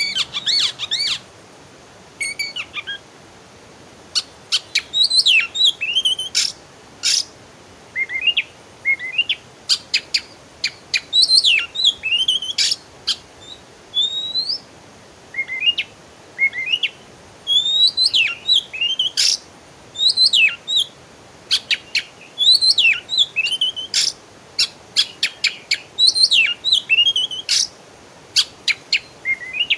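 Songbird singing in quick phrases of chirps and whistled notes that rise and fall, with short pauses between the phrases.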